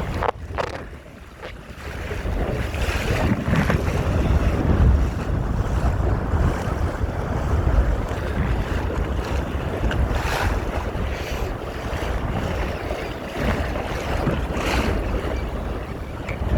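Wind buffeting the microphone over water rushing and splashing along the hull of a Topper sailing dinghy under way, louder from about two seconds in.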